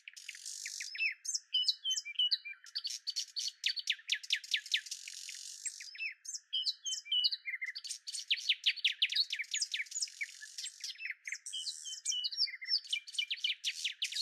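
Small birds chirping in quick runs of short falling notes, the same busy phrase coming back about every five seconds.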